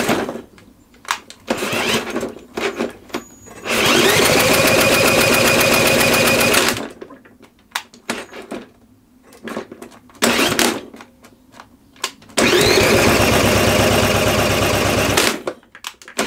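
Drill spinning up with a rising whine and cranking a Homelite V35 lawnmower engine on choke, twice for about three seconds each, with a fast even beat as the engine turns over. Each try cuts off suddenly when the drill stops, so the engine is not catching. Scattered clicks and knocks come between the two tries.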